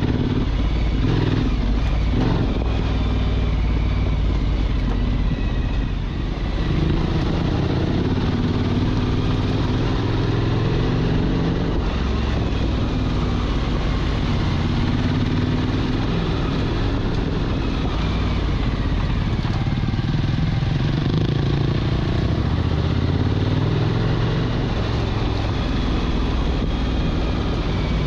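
Motorcycle engine running while riding, its pitch rising and falling with the throttle and dipping briefly about six seconds in.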